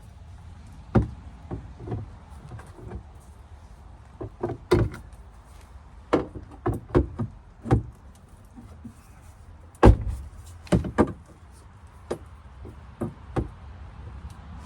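A Dodge Dakota's jammed, crushed sheet-metal door being beaten back into shape: a string of irregular sharp knocks and bangs, about seventeen in all, loudest about ten seconds in.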